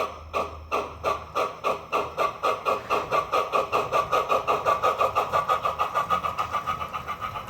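Steam exhaust chuffs from the DCC sound decoder of a USHobbies Dockside O gauge model steam locomotive, played through its small onboard speaker. The beats quicken steadily from about three to about six a second as the locomotive speeds up.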